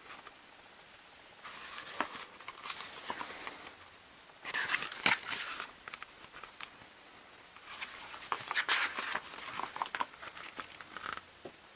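Pages of an album photobook being turned and handled, paper rustling and crinkling in three bursts, the last one the longest.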